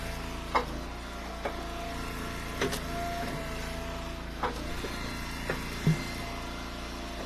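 An Eastonmade Ultra hydraulic wood splitter's engine running steadily, with a steady hydraulic whine, while ash firewood is split. About six sharp knocks of split wood pieces being thrown and landing on one another stand out over the hum.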